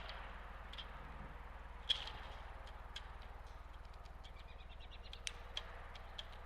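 Small birds giving scattered short chip calls, mixed with sharp clicks, the strongest about two seconds in and twice more near the end. Beneath them run a steady low hum and even background noise.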